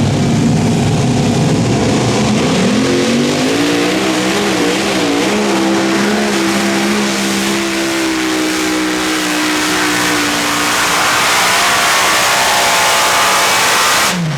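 Super modified pulling tractor's engine running at full throttle on a pull, its pitch climbing over the first few seconds and then holding high and steady. The sound drops off abruptly near the end.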